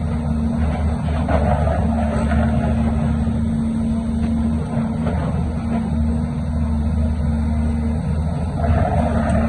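Heavy diesel engine of earthmoving machinery running steadily: a low drone with a steady hum above it.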